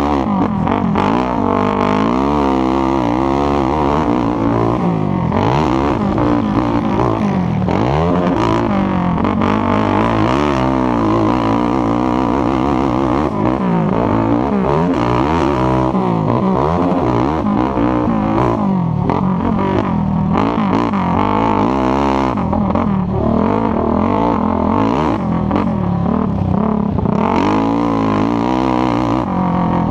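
ATV engine racing, the revs rising and falling again and again as the throttle is worked through the track.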